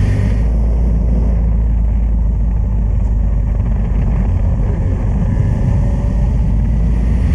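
Honda Transalp 600's V-twin engine running as the motorcycle rides off, a steady low rumble.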